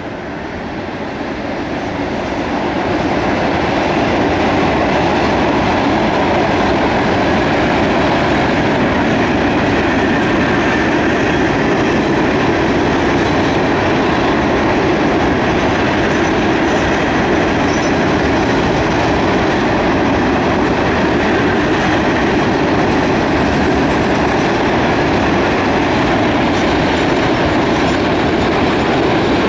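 Loaded coal hopper cars of a fast freight train rolling past: a steady rumble and clatter of steel wheels on rail, swelling over the first few seconds and then holding level.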